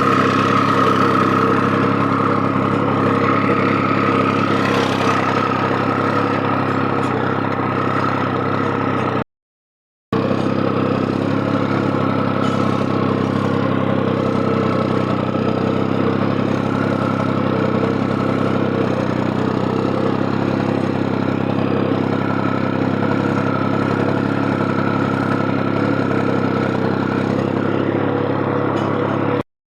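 Tractor diesel engine running steadily at an even speed, with a short break in the sound about nine seconds in.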